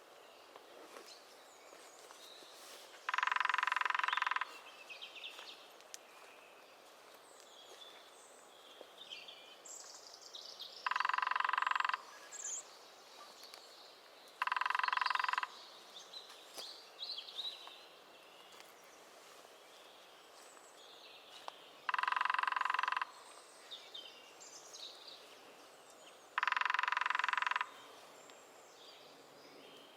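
Lesser spotted woodpecker drumming: five even, rapid rolls of about a second each, a few seconds apart. Faint calls of other small birds are heard between the rolls.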